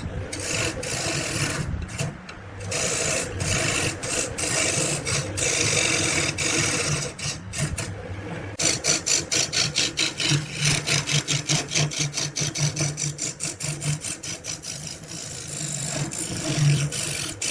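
Wood being rubbed down by hand in repeated abrasive strokes, like rasping or sanding. Slower, longer strokes give way about halfway through to a fast run of short strokes, which slows again near the end.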